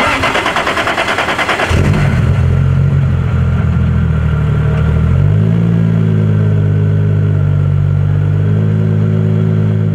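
Toyota Aristo's 2JZ twin-turbo inline-six is cranked by the starter with a fast, even pulsing for under two seconds, then catches and runs steadily at idle. The idle steps up a little about five seconds in.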